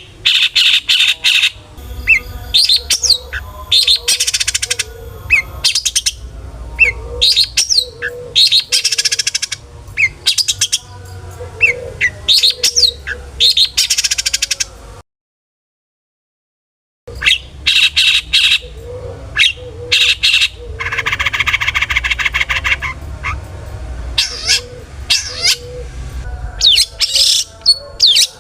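Long-tailed shrike (cendet) in full song: a fast run of sharp whistled notes and harsh, rasping chatter, mixed with notes mimicked from other birds. The song cuts out for about two seconds midway and then resumes.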